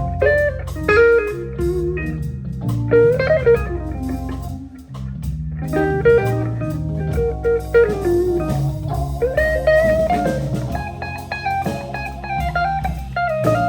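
Live organ-trio band playing a slow blues instrumental, an electric guitar taking a solo line with bent notes over organ, bass and drum kit.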